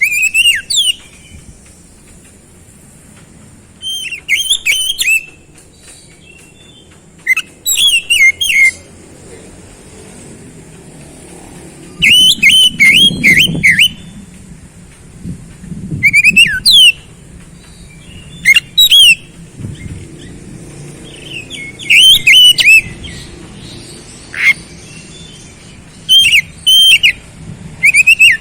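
Oriental magpie-robin singing in loud bursts of fast, steeply falling whistled notes, each burst about a second or two long and repeated every few seconds.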